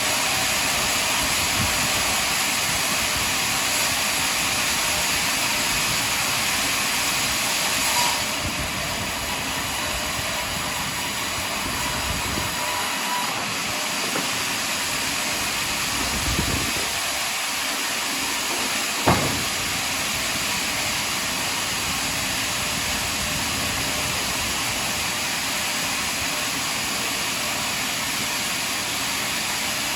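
Sawmill machinery running steadily while sawing a log, with a short sharp knock about 19 seconds in and a smaller one about 8 seconds in.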